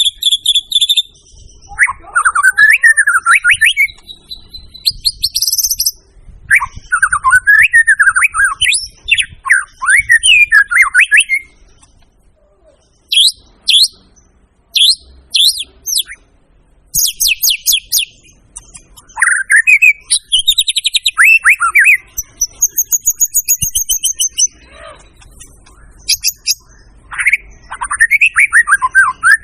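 White-rumped shama (murai batu) in full song: loud, varied phrases of sweeping whistles, fast rattling trills and very high thin notes, separated by short pauses.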